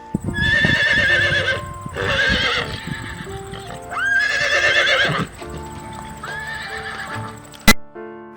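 A horse whinnying four times, each call about a second long with a quavering pitch, over hoof clip-clop and background music. A sharp click comes near the end.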